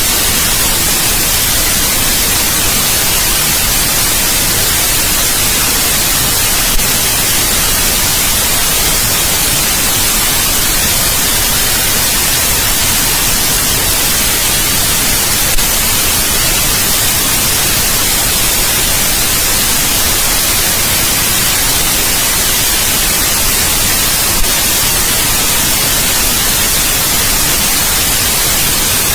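Steady, loud white noise: an even hiss across all pitches, with a faint click three times, about nine seconds apart.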